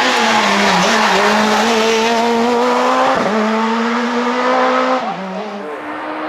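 Super 2000 rally car's naturally aspirated two-litre four-cylinder engine running hard at high revs, holding a near-steady pitch with a brief dip about three seconds in, then dropping in level about five seconds in.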